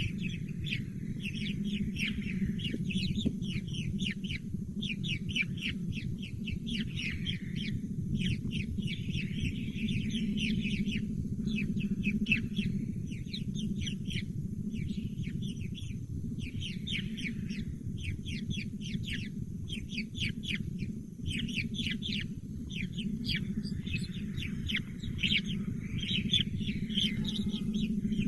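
Baby birds calling in fast trains of short, high chirps, coming in clusters of a few seconds each, over a steady low hum.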